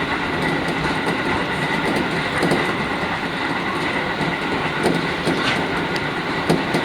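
JR Kyushu 415 series electric multiple unit running on the rails, heard from inside the lead car: a steady running rumble with a constant whine and scattered clicks from the wheels.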